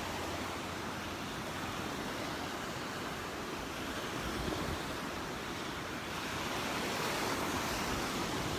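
Gulf of Mexico surf washing onto the beach, a steady rush of breaking waves that swells a little about six seconds in, with some wind on the microphone.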